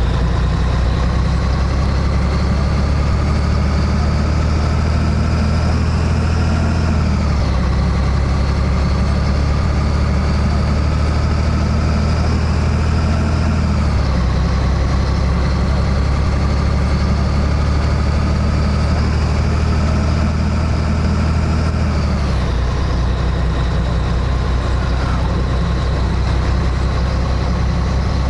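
Scania 113H truck's six-cylinder diesel engine pulling under load. Its pitch climbs slowly through each gear and drops sharply at each upshift, three times: about a quarter of the way through, halfway, and about three-quarters through.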